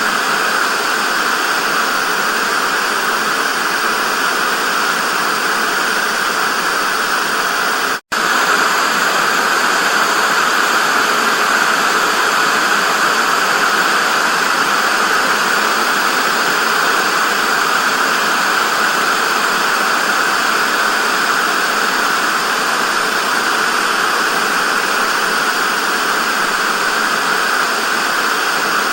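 Analogue TV static: a steady, loud hiss, strongest in the middle range. It cuts out for an instant about eight seconds in, then resumes unchanged.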